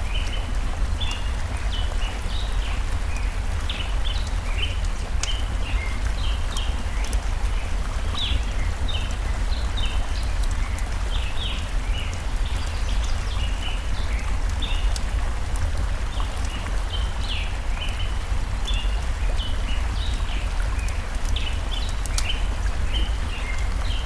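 Flowing stream with a steady deep rumble, birds chirping again and again throughout, and now and then the sharp crackle of a burning wood fire.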